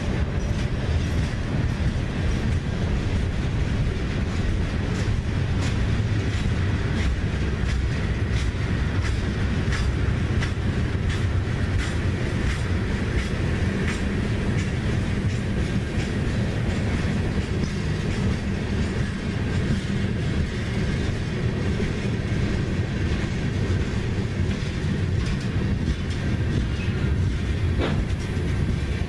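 Freight cars of a CSX manifest train rolling past: a steady rumble with steel wheels clicking over the rail joints.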